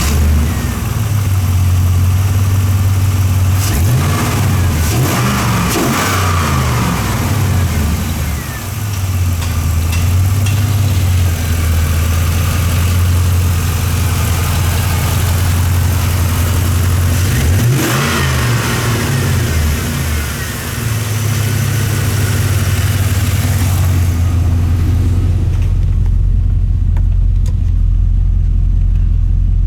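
A 1998 Trans Am's 5.7-litre LS1 V8 idling, revved up and let fall back to idle twice: about four to six seconds in, and again about eighteen seconds in. Near the end the sound turns deeper and duller as the higher frequencies drop away.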